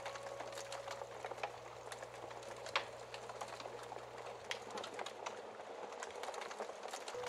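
Wood fire crackling, with scattered small pops and one louder crack about three seconds in. A sustained piano note fades out over the first second.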